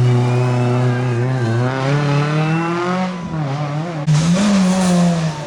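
Rally car engine revving hard under acceleration, its pitch climbing, then dropping at a gearshift about three seconds in before climbing again. A sharp burst of noise comes about four seconds in.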